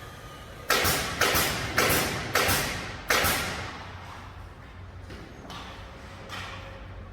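Nailing into wood: five sharp strikes about half a second apart, each ringing on in the room, then two fainter strikes a few seconds later.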